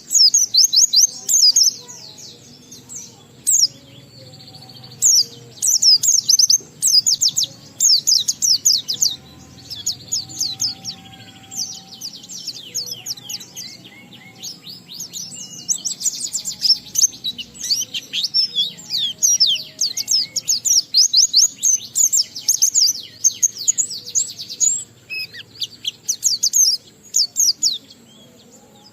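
A white-eye (pleci) in full continuous song, 'ngalas': long rapid runs of high, fast twittering chirps broken by short pauses, the phrases carrying mimicked 'isian' material.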